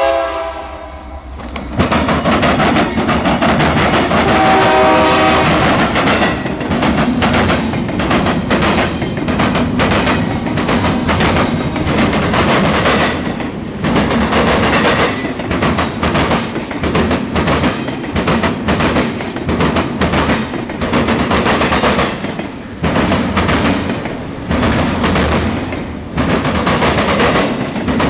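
Intermodal freight train passing close by: loud, irregular clatter and banging of wheels and cars over the rails. A short locomotive horn chord sounds about four seconds in.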